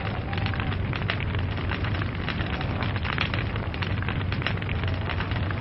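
Log fire crackling, with dense, irregular pops and snaps over a steady low rumble.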